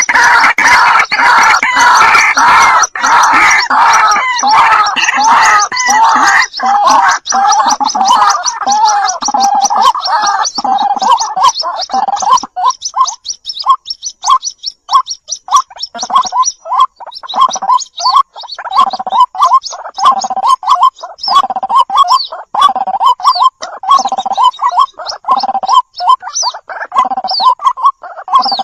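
White-breasted waterhen calling. A dense run of loud, overlapping calls lasts about the first twelve seconds. It then settles into a steady series of short calls repeated about once or twice a second.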